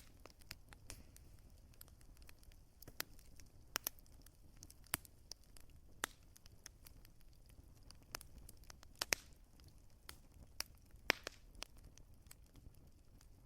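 Wood fire crackling: irregular sharp pops and snaps, a few standing out louder, over a low steady rumble of the burning fire.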